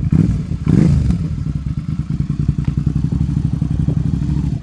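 Motorcycle engine running close by, a steady rapid low pulsing with a brief swell about a second in.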